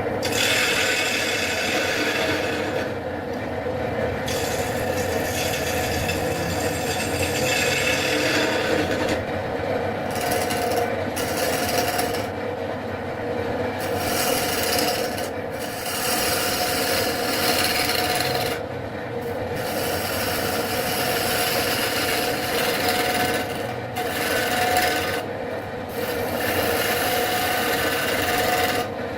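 Wood lathe running with a cutting tool scraping the spinning wood blank: a steady machine hum under a rasping, scraping hiss that breaks off briefly several times as the tool leaves the wood.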